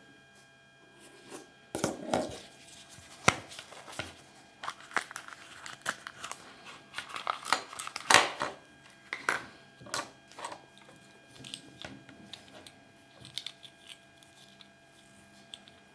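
Packaging being handled and unwrapped: irregular crinkling and tearing with sharp clicks, loudest about a third and halfway in.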